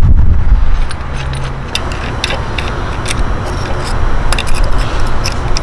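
Light metallic clicks and clinks of hand tools and small parts being handled, starting a little under two seconds in, over a steady low rumble.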